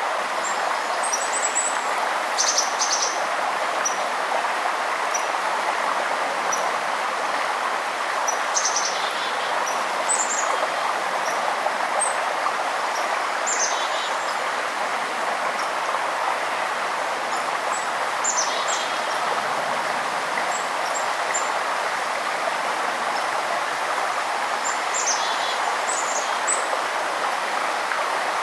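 Steady rushing of a forest stream, with songbirds calling over it: short high chirps and brief downward-sliding trills every few seconds.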